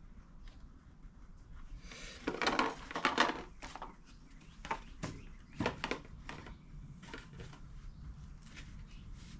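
Small brake-kit parts and their packaging handled on a workbench: a rustle about two to three and a half seconds in, then a few light clicks and clinks.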